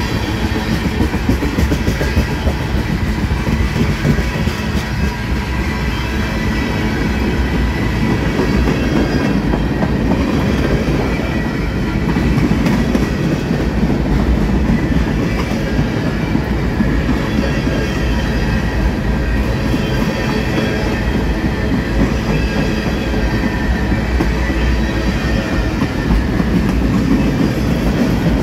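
A freight train's hopper cars and centerbeam flatcars rolling past: a steady rumble of steel wheels on the rails with clickety-clack over the rail joints.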